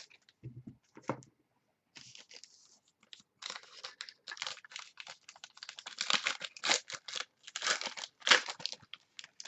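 Trading card packaging being torn open and crinkled, with quick rustling strokes through most of the second half. A couple of dull knocks come about half a second to a second in.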